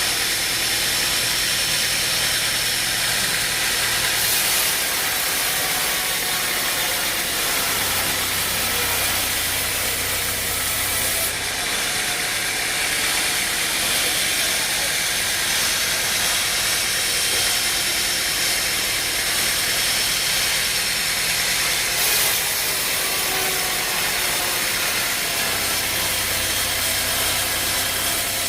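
Stump grinder running steadily, its engine noise covered by a continuous loud hiss.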